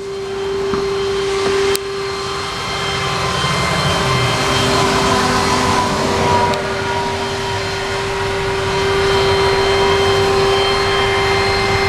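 A mechanics truck's machinery running steadily: a constant whine over a low rumble. There is a single sharp click about two seconds in.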